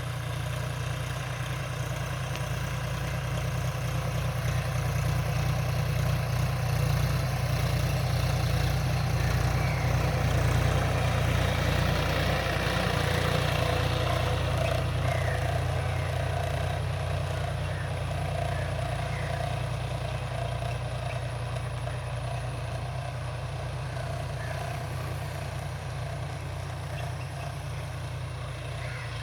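John Deere 5045D tractor's three-cylinder diesel engine running steadily, growing louder toward about ten seconds in and then slowly fading.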